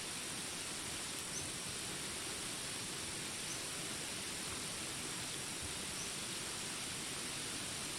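Jungle ambience of steady rain hiss under a constant high insect drone. Three faint, short, high chirps come about one and a half, three and a half, and six seconds in.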